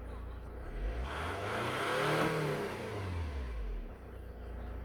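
Saab 9-5 2.2 TiD (D223L) four-cylinder turbodiesel idling and revved once: the engine speed climbs about a second in, peaks, and drops back to idle by about four seconds.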